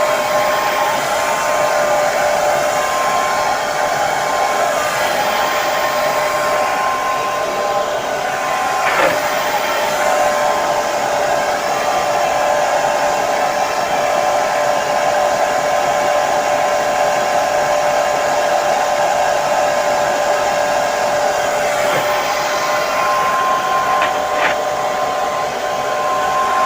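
Hair dryer running steadily, an even rush of air with a steady whine from its motor and fan.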